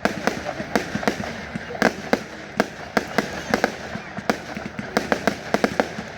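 Fireworks display going off: a dense, irregular string of sharp bangs and crackling pops, several a second.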